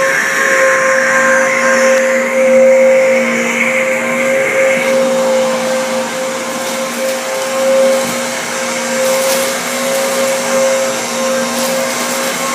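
Handheld mini vacuum cleaner running steadily, a motor hum and airflow rush as it sucks up spilled cereal from carpet; its higher whine fades about five seconds in.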